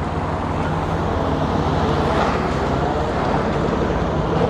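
Alfa Romeo Giulia Quadrifoglio's 2.9-litre twin-turbo V6 running as the car pulls out, growing louder over the first second and then holding a steady note.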